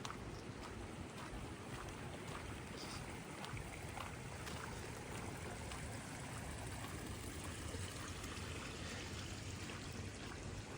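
Steady rain falling, a constant hiss with many scattered drop ticks.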